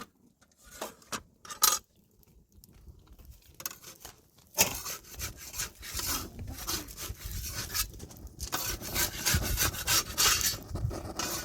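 A few separate knocks, then from about four and a half seconds in continuous rough rubbing and scraping, like something being worked, dragged or handled against wood.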